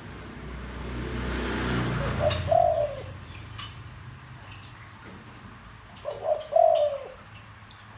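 Spotted dove cooing: two deep call phrases about four seconds apart, each a short note followed by a longer, falling one. A swelling hiss comes just before the first phrase.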